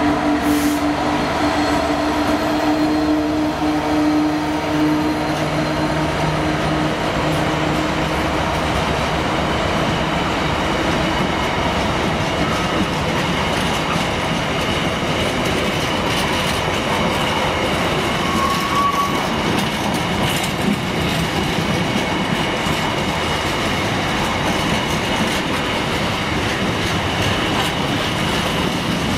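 A Freightliner Class 66 diesel locomotive passes close, its two-stroke V12 engine's low drone fading over the first ten seconds or so. A long train of empty container flat wagons then rolls steadily by, with continuous wheel-on-rail rumble and clatter and a steady high-pitched squeal from the wheels.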